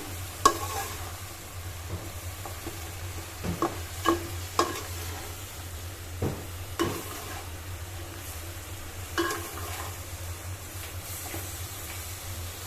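Spatula stirring spiced potatoes, flat beans and tomatoes sautéing in a pan, with a steady sizzle and scattered sharp knocks and scrapes of the spatula against the pan.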